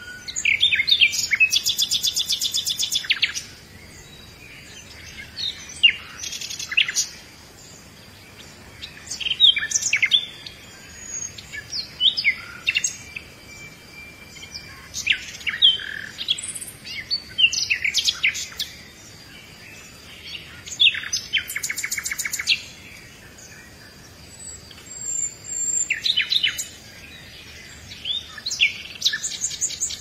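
Birdsong: short phrases of quick chirps, sweeping notes and fast trills, coming every two to three seconds.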